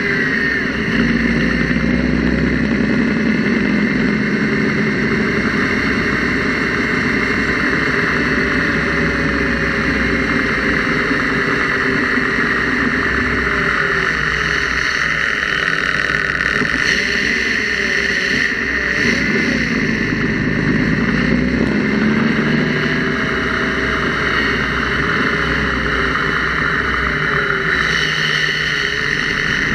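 Engine with hydraulic lifters and a mechanical fuel pump running steadily, its speed drifting gently up and down a few times. The owner is chasing a valvetrain noise in it: he first suspected the fuel pump, then put it down to a tired or weak valve spring.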